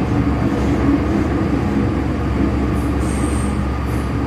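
Hong Kong MTR Kwun Tong Line M-Train running: a steady rumble with a low hum, and a brief faint high squeal about three seconds in.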